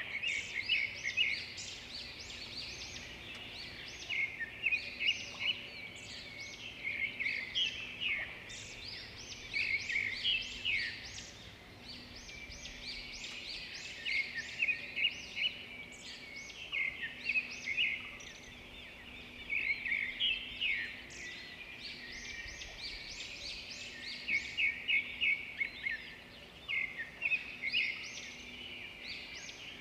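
Several birds singing and chirping together: overlapping high calls, with louder bursts of quick repeated notes every few seconds over a constant background of song.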